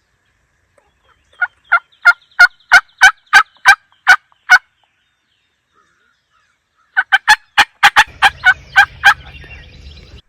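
Turkey yelping: two runs of short, evenly spaced notes, about three a second, each run about ten notes long, the second starting about seven seconds in.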